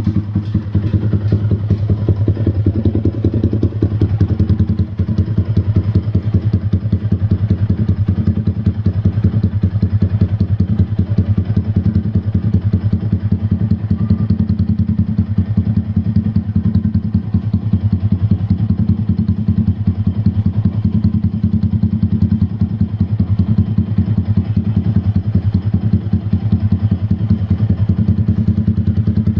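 Yamaha R15 V3's single-cylinder engine idling steadily through its exhaust, a deep, bassy, even pulsing with no revving.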